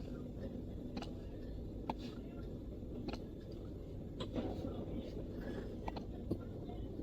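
MacBook keyboard keys tapped sparsely, a few light irregular clicks about once a second, over a steady low background rumble.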